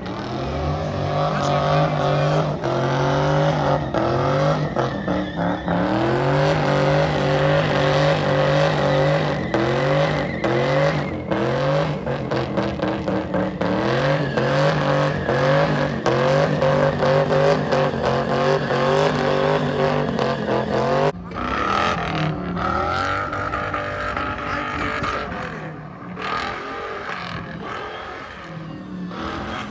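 Car engine revving hard at high revs, its pitch rising and falling in repeated surges. About 21 seconds in it drops off suddenly and a lower engine note takes over.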